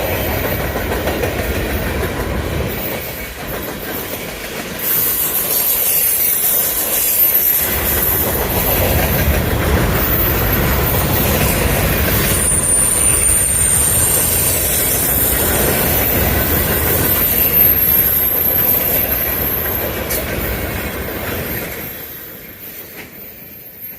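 Freight train cars rolling past, wheels clattering over the rail joints with intermittent high-pitched wheel squeal; the sound fades away near the end as the train's last cars go by.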